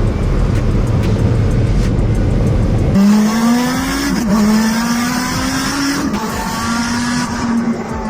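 SSC Tuatara's twin-turbo V8 running hard under acceleration. About three seconds in the sound changes abruptly to a clear engine note that climbs in pitch, with a brief dip just past four seconds. It then rises again and levels off near the end.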